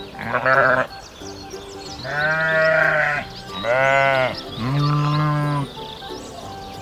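Sheep bleating four times: a short call near the start, then three longer calls between about two and six seconds in, the last one lower-pitched.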